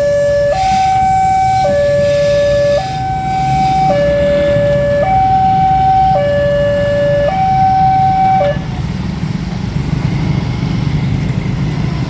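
Railway level-crossing warning alarm sounding a two-tone high-low signal, each tone lasting about a second, over a low rumble. The alarm stops about eight and a half seconds in, leaving the rumble.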